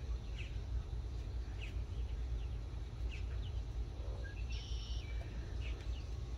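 Birds chirping in the background, short chirps every second or so and one longer, higher call a little past the middle, over a steady low rumble.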